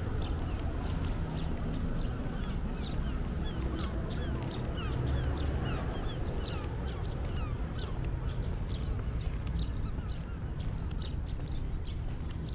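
Small birds chirping busily, many short falling chirps several times a second, over a steady low rumble.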